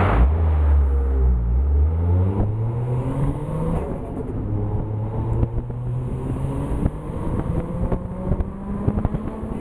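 Toyota 1JZ-GTE VVTi turbocharged straight-six running through a custom 3-inch exhaust with a JASMA muffler. Its revs fall off sharply as the throttle is released and settle to a low idle over the first couple of seconds. Short crackles come from the exhaust in the second half.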